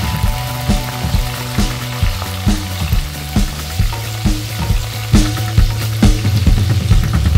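Cumin and mustard seeds sizzling in hot oil in a pan, over background music with a steady beat of about two beats a second.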